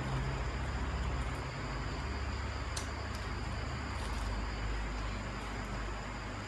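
Fried rice cake being chewed, with a few faint crunchy crackles about three and four seconds in, over a steady low hum.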